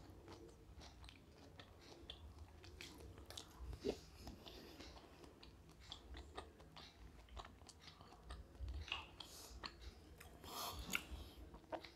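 Faint close-up chewing of a fried, spiced prawn, with scattered small clicks from the mouth, a little busier near the end.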